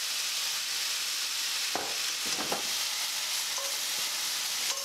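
Tempeh cubes and asparagus sizzling steadily in hot peanut oil with freshly added soy sauce. A few short knocks and scrapes of stirring come about two seconds in.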